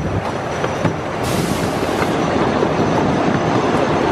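Miniature park train rolling along its narrow-gauge track, heard from a riding car: a steady rumble of the wheels on the rails with a few short clacks.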